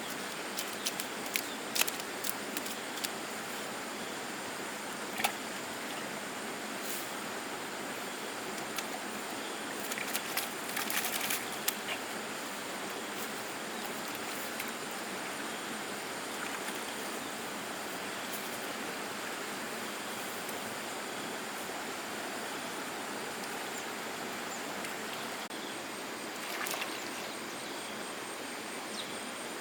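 Steady outdoor noise, like flowing water, with a thin high steady tone and scattered sharp clicks and knocks, most of them in the first dozen seconds.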